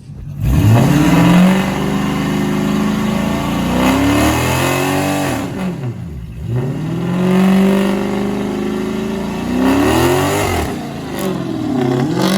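A car or truck engine revved hard over and over, its pitch climbing, holding and dropping back about four times.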